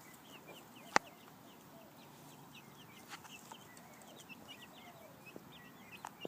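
Young hens cheeping softly and repeatedly, many short falling peeps, with one sharp click about a second in.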